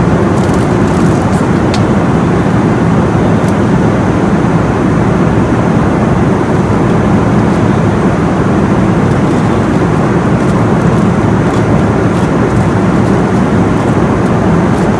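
Steady cabin noise of an airliner in flight: jet engine and airflow noise heard from inside the passenger cabin, a loud, even rumble with no change.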